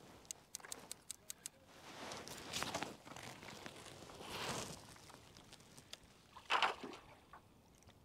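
Fishing reel clicking in a quick, even rhythm as line is wound in, stopping about a second and a half in. Then rustling and swishing as the landing net is pulled out and handled, with one louder thump about six and a half seconds in.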